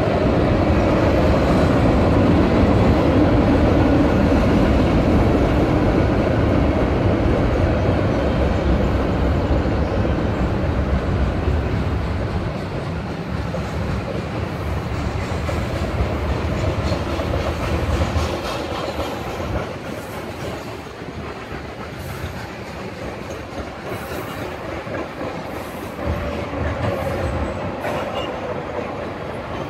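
Mixed freight train rolling past at close range: boxcars, covered hoppers and double-stacked intermodal containers on steel wheels, a steady running noise that eases off about halfway through as the cars go by.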